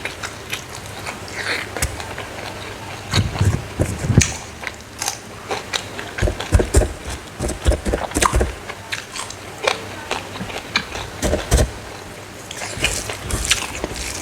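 A person chewing smoked, dried frog: irregular crisp crunches and biting sounds that come in clusters, as the dried flesh and small bones break.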